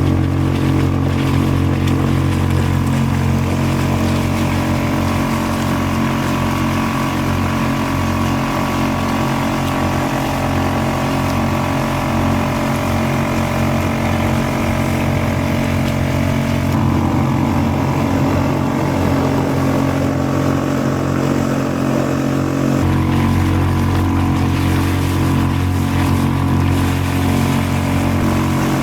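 Small Suzuki 2.5 hp outboard motor running steadily under way, driving a kayak. Its tone shifts slightly about halfway through.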